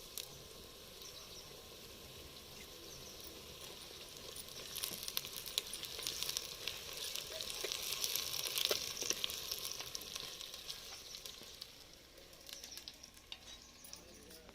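Ginger paste frying with onions and curry leaves in hot oil: a steady sizzle with clicks of stirring in the pan. The sizzle swells in the middle and dies down near the end.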